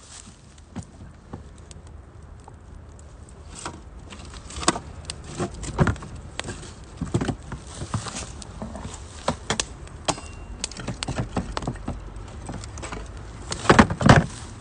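Firewood burning in a UNIFLAME Nature Stove Large, crackling and popping irregularly, with a louder cluster of pops near the end.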